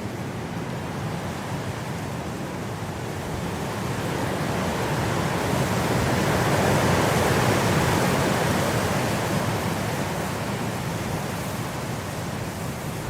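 Blizzard wind blowing as a steady rush that swells into a stronger gust about halfway through, then dies back.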